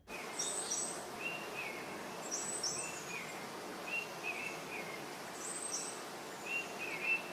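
Birds chirping over a steady outdoor background hiss. A high double chirp repeats every two to three seconds, with lower, shorter chirps in between.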